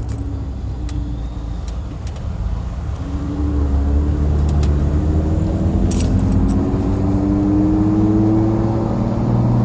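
A vehicle engine running, its note climbing slowly for several seconds from about three seconds in as it speeds up, over a steady low road hum.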